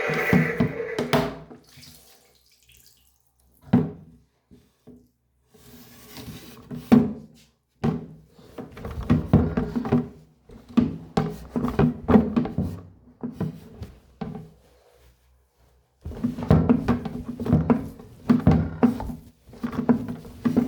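Toy washing machine running with water in its drum: uneven bursts of sloshing and splashing, with a few short pauses. A beeping tune from the toy dies away about a second in.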